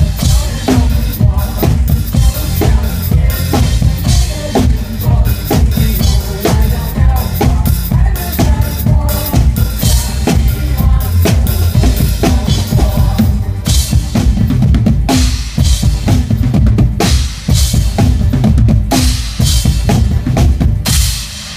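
Drum kit played hard and fast, with a driving bass drum and sharp snare and rimshot hits, over pop music. The playing stops abruptly near the end.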